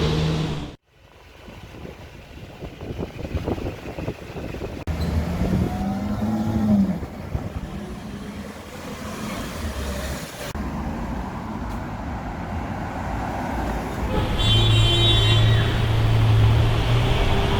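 Supercar engines with street traffic, in several clips cut together: a brief rev that rises and falls in pitch about six seconds in, and a steady, louder engine note over the last few seconds.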